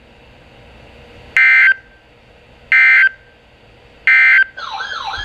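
Three short EAS SAME digital data bursts, each a harsh buzzing chirp of under half a second, sent about 1.3 s apart: the end-of-message code closing the warning. Near the end a wavering, siren-like alert tone starts.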